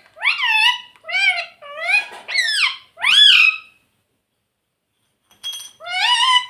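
Green ring-necked parrot calling: a quick run of five shrill calls, each rising then falling in pitch. After a pause of about a second and a half, more calls start near the end.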